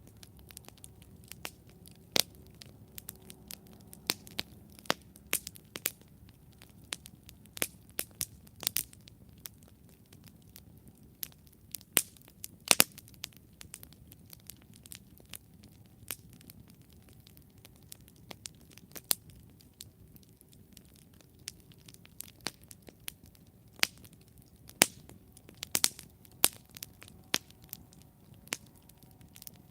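Wood campfire burning, with many sharp irregular crackles and pops over a soft low rumble of the flames.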